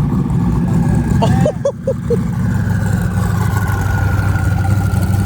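Car engine running loudly with a deep, steady rumble. Four quick chirps come about a second and a half in, and a faint high whine slowly falls near the end.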